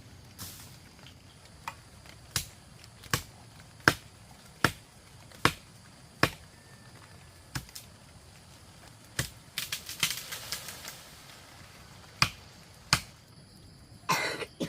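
Repeated sharp knocks of a hand tool striking, about one every three quarters of a second, with a short scraping rustle around ten seconds in and two more knocks before a brief rough scrape near the end.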